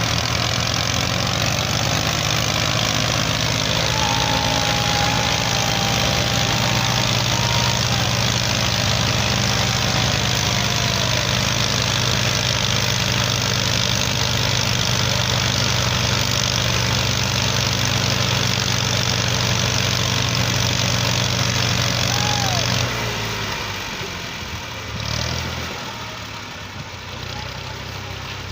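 Massey Ferguson 240 tractor's three-cylinder diesel engine running steadily and loudly under load; about 23 seconds in, its sound drops off and eases to a lower level.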